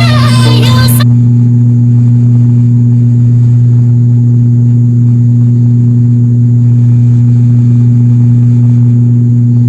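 Music cuts off about a second in, giving way to the loud, steady drone of a turboprop airliner's cabin: a constant low propeller hum with its overtone over engine and air noise.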